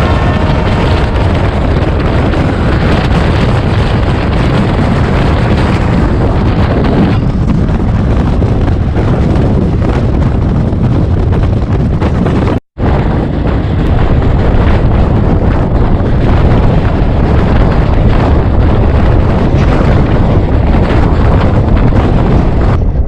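Loud running noise of a moving express train, a dense rumble and rush with wind buffeting the microphone. A train horn dies away in the first moment, and the sound cuts out for an instant about halfway through.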